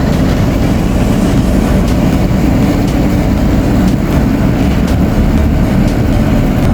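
Steady low rumble of a running vehicle, with a few faint ticks and rattles.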